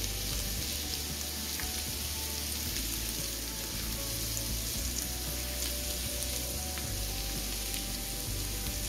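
Chopped garlic sizzling steadily in melted butter in a frying pan as it is sautéed and stirred.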